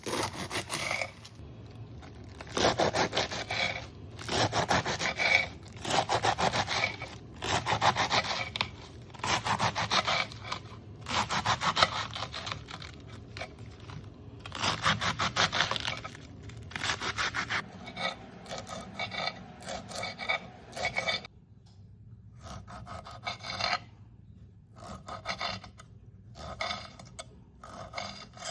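Repeated rasping scraping strokes in kitchen food preparation, about one a second, each a rough, scratchy rub. There is a short pause about two-thirds of the way through, after which the strokes are shorter and lighter.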